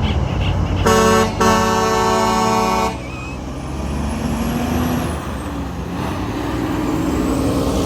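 A truck's air horn blasts twice about a second in, a short toot and then a longer held blast of about a second and a half, over the low running of truck engines. The engines carry on after the horn stops.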